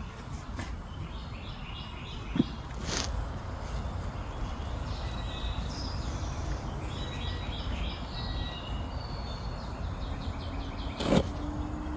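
Small birds singing repeated short trilled phrases in the background over a steady low rumble. There are sharp knocks about two seconds in and again near the end.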